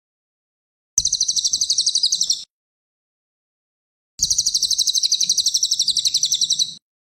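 Cililin songbird singing two rapid, high-pitched chattering trills, the first about a second in and a longer one from about four seconds, each starting and stopping abruptly as in an edited training recording.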